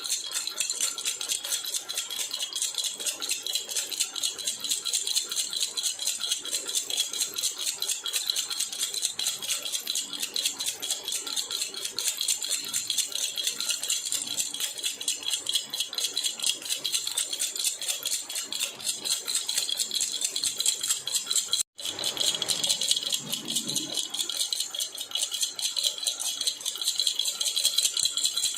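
Baby rattle (jhunjhuna) shaken steadily and fast, giving a continuous bright jingling rattle. It breaks off for a split second about 22 seconds in, then carries on.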